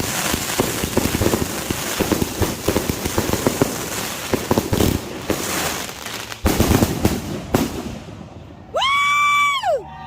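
Consumer firework cake firing: rapid crackling and popping with heavier bangs mixed in for about eight seconds, then dying away. Near the end a loud, high-pitched held cry rises, holds for about a second and falls off.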